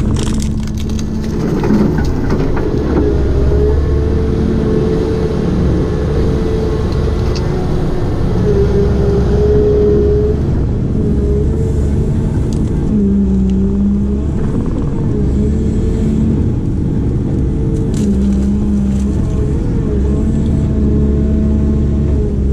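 Heavy construction machine's diesel engine running hard under hydraulic load, its steady hum stepping up and down in pitch every few seconds as the load changes.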